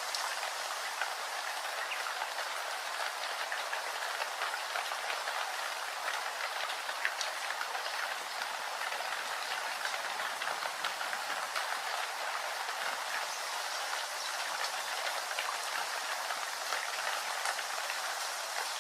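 Steady rain falling, a dense even hiss dotted with many small drop ticks.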